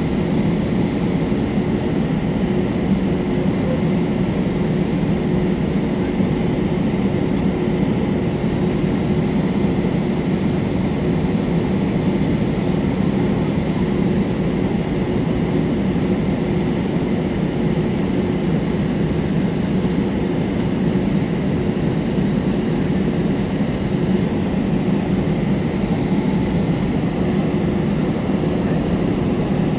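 Steady cabin noise inside an Airbus A320 airliner: the even hum of the jet engines and airflow, with a low steady tone and a faint high whine, holding level without rising or falling.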